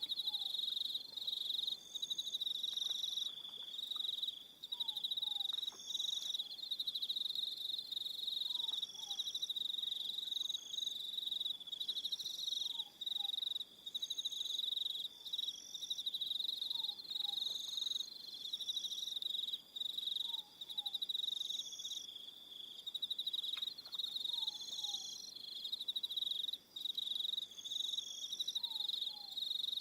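Evening chorus of crickets trilling in a dense, steady, high-pitched chorus. A faint two-note falling call repeats about every four seconds beneath it.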